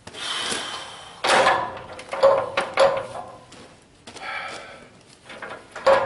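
Scraping and rubbing with several sharp knocks as a new radiator is worked into place in a Case 580C backhoe's radiator frame, past the engine fan.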